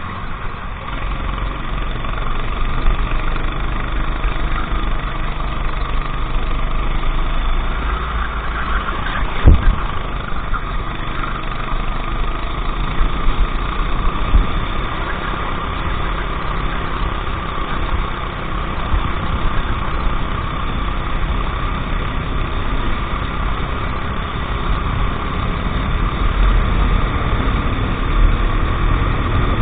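Go-kart engine running through a race heat, a steady engine note over a heavy low rumble, with one sharp knock about nine and a half seconds in.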